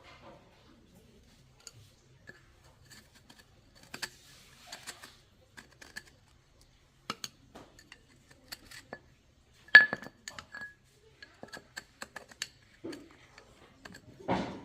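Metal tools and parts clinking and tapping in a workshop, a string of scattered sharp clicks, with one louder ringing metallic strike a little past the middle and a heavier knock near the end.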